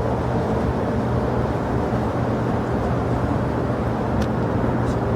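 Steady jet airliner engine noise: an even low-heavy rumble with a steady underlying hum.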